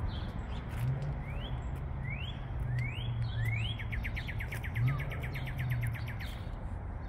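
A songbird singing: four rising whistled notes about a second apart, then a fast trill of about eight notes a second lasting a couple of seconds. A steady low hum runs underneath.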